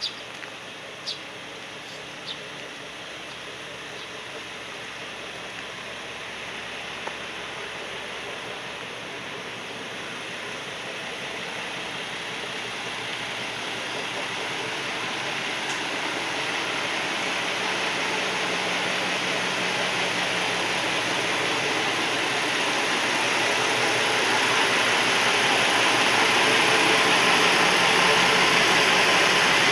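Diesel railcar running on the line, heard from inside the cab: a steady rumble of engine and wheels on rails that grows gradually louder throughout, with a few sharp clicks in the first couple of seconds.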